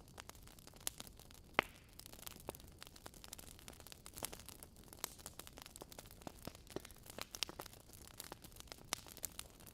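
Wood logs burning in a fireplace, crackling: irregular sharp snaps and pops over a soft steady hiss, one louder pop a little over a second and a half in.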